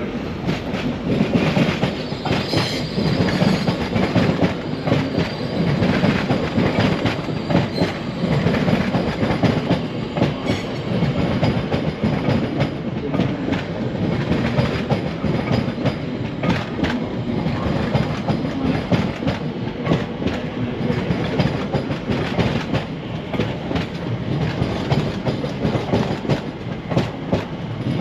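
A train running past on the line, its wheels clattering steadily over the track with many quick clicks from the rail joints.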